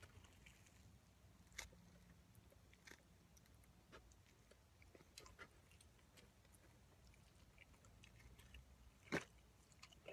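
Faint chewing of a roast beef steak sandwich topped with a hard, dense fried onion ring: a few scattered soft crunches and mouth clicks, the loudest a short crunch about nine seconds in.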